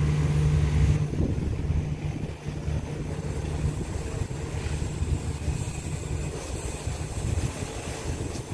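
A diesel passenger train pulling away. A steady low engine hum drops off about a second in, leaving a fading rumble as the train moves off.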